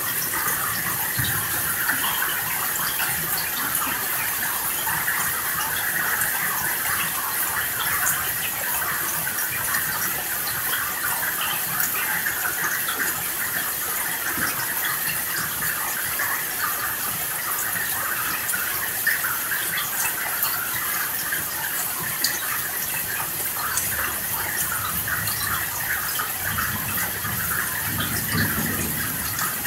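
Steady heavy rain: a dense, even hiss of falling rain with many single drops ticking through it. A low rumble of distant thunder swells near the end.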